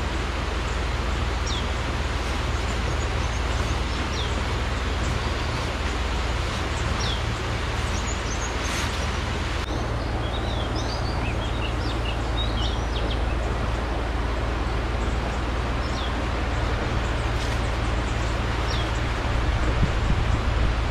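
Short single bird chirps every few seconds, with a quick flurry of chirps about halfway through, over a steady background hiss and low rumble.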